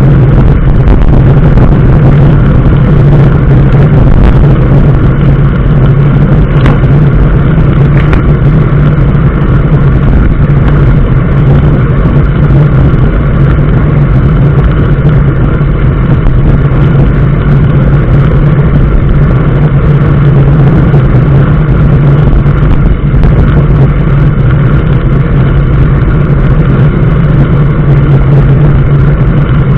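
A motor vehicle's engine running at a steady speed, a constant low drone over continuous road and wind noise.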